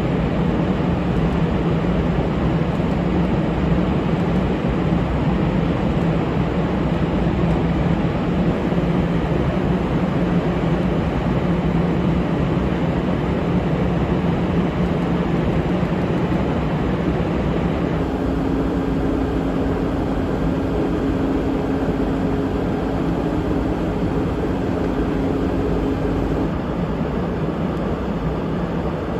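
F-35A Lightning II fighter jet's F135 turbofan engine, a loud continuous roar. The sound changes abruptly about two-thirds through, with a steady hum coming in, and changes again near the end.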